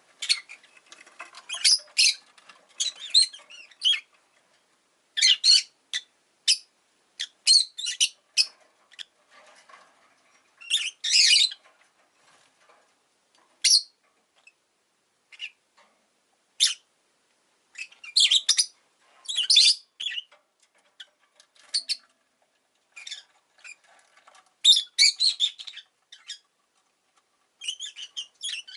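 Rosy-faced lovebird chirping: irregular clusters of short, shrill chirps separated by brief pauses.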